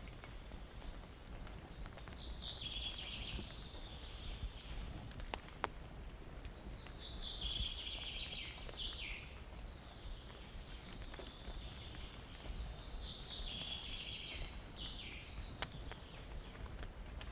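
A songbird singing the same short song three times, each phrase about two and a half seconds long and a few seconds apart, over a steady background hiss and low rumble. Two sharp clicks stand out, one about a third of the way in and one near the end.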